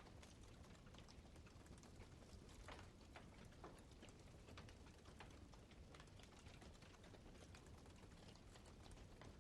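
Faint campfire crackling: irregular small pops and snaps from burning wood over a low steady rush.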